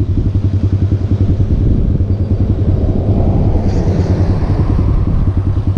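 Motorcycle engine running under way, a steady rapid pulsing, swelling briefly around the middle.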